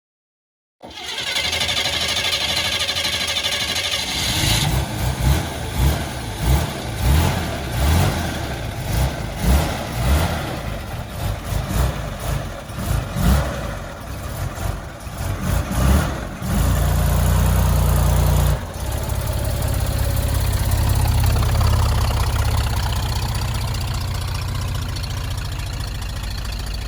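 1954 Corvette's engine starting, then blipped again and again in short rising and falling revs, then held at a steady higher speed and left running evenly.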